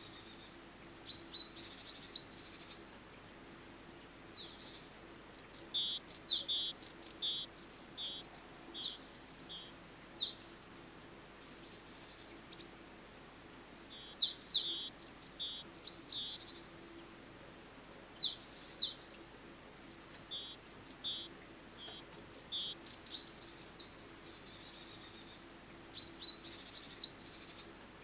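Songbirds singing in woodland: short phrases of quick, high chirps repeated every few seconds over a faint steady background hiss.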